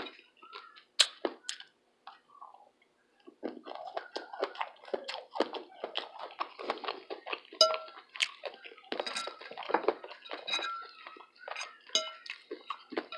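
Close-miked eating sounds: two sharp clicks about a second in, then after a short lull, steady crunchy chewing full of small crackles.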